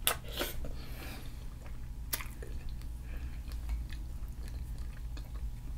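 Close-miked eating: a mouthful of butter-sauced seafood boil being bitten and chewed, with wet mouth smacks and a few sharp clicks, the loudest about two seconds in.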